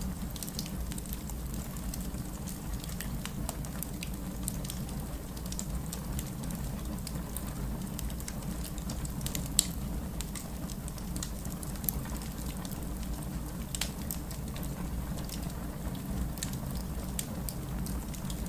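Wood fire crackling in a fireplace: a steady low rumble of burning with frequent small snaps and pops, and one sharper pop about halfway through.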